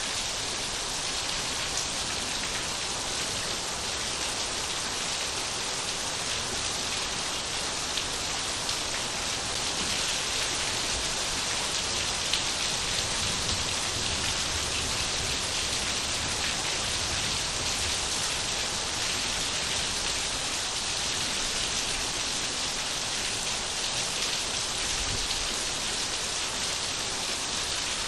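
Steady rain falling and pattering on surfaces, an even hiss with individual drops ticking through it.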